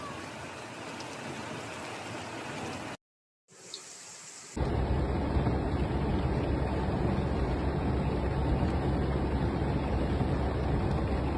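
Heavy rain pouring steadily. The sound cuts out briefly about three seconds in, returns quieter, then becomes much louder and deeper from about four and a half seconds in.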